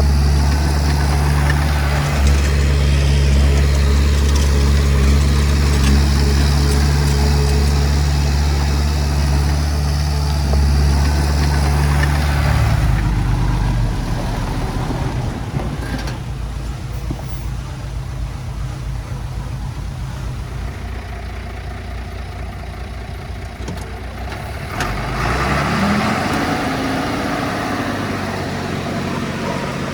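Heavy-equipment diesel engine running with a deep, steady drone. About 13 seconds in it drops to a lower, quieter note, and it picks up again a few seconds before the end.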